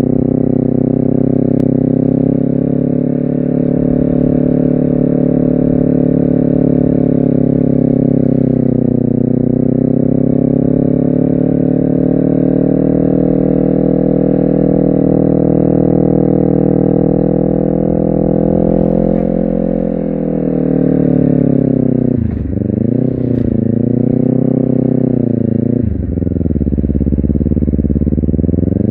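Honda CBR250RR motorcycle engine pulling at fairly steady revs, easing slightly and picking back up. In the last third it accelerates through the gears, the pitch dropping sharply at each shift and then climbing again, about three times.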